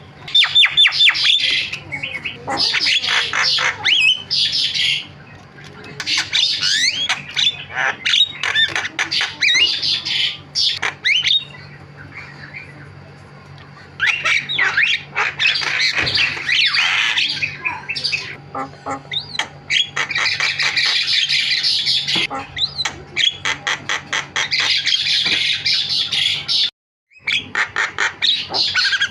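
Javan myna (jalak kebo) chattering loudly: fast runs of harsh squawks, clicks and short whistled glides, broken by a few brief pauses and a sudden silent dropout near the end.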